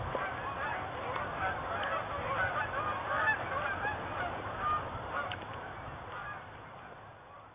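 A flock of birds calling, many short calls overlapping, gradually fading out near the end.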